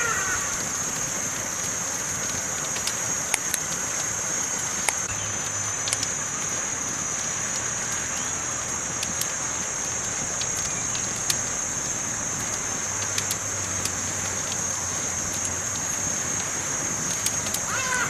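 Campfire crackling: a steady hiss with sharp pops and snaps scattered irregularly throughout, over a steady high-pitched hiss.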